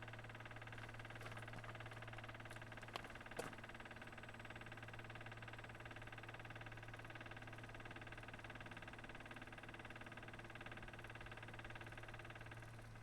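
Electric fuel pump of a Kubota KX040 excavator running with the key on, a steady hum, pushing air out of the fuel system through the water separator's bleed. There are two brief clicks about three seconds in. Near the end the pump's sound eases as fuel reaches it and the air is purged.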